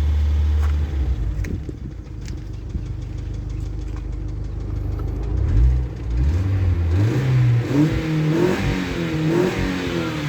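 Mini Cooper R50's 1.6 petrol engine idling with a light repeated knocking, then revved up and held with the pitch rising and wavering. The owner takes the knock for piston knock, not from the cylinder head, and it shows only at idle and goes away under throttle.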